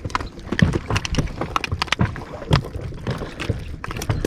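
Irregular knocks and thumps against an inflatable boat, as gear and catch are handled on board.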